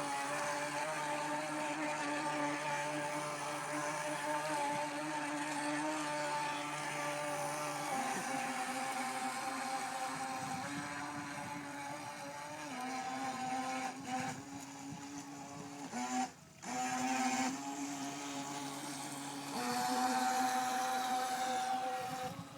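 Twin-motor electric RC race boat running at speed: a steady, high motor whine that shifts pitch as the throttle changes. It cuts out for a moment about two-thirds of the way through, then comes back louder.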